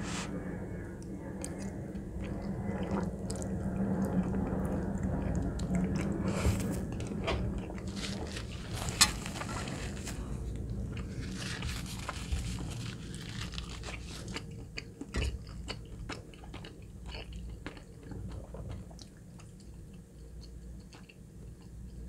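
Close-miked chewing and wet mouth sounds of a person eating creamy chicken alfredo pasta, with many small clicks and one sharp click about nine seconds in. The chewing grows quieter in the second half.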